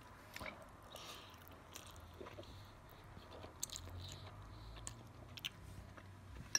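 A person chewing a mouthful of boiled instant mi goreng noodles, with scattered faint mouth clicks.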